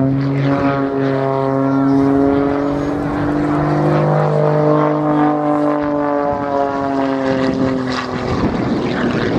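Modified Pitts S-2S aerobatic biplane's 330 horsepower piston engine and propeller running hard in a display flight. Its note rises and falls as it manoeuvres, drops sharply about six seconds in, and turns rougher near the end.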